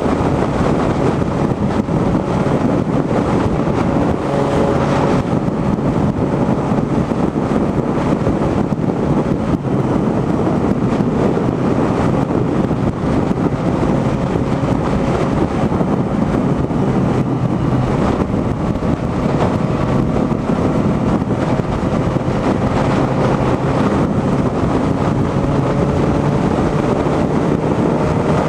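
Wind rushing over the microphone and a motorcycle engine running while riding at highway speed, a steady roar with the engine pitch rising slowly near the end.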